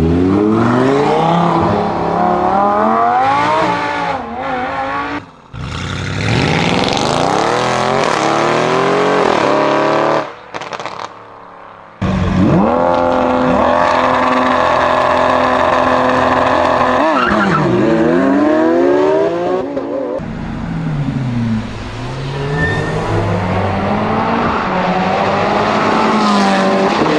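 High-performance supercar engines revving hard and accelerating, heard in several cuts one after another. The pitch climbs again and again through the gears. In the middle the revs are held high and steady for several seconds before dropping. Near the end cars sweep past.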